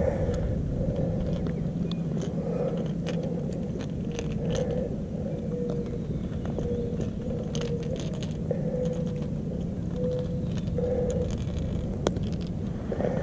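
Small clicks and scrapes of a fishing lure and hook being worked free from a largemouth bass's mouth by hand, over a steady low rumble.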